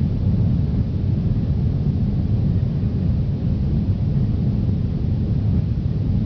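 Steady low rumble of an Airbus A340's engines and airflow, heard from inside the cabin with the engines at high power after takeoff.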